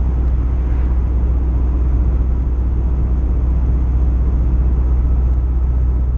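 Turbocharged Honda K20 four-cylinder in a Toyota MR2 running at a steady pitch with a deep, even rumble, not revving.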